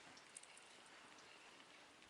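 Near silence: faint outdoor background hiss, with one small click about a third of a second in.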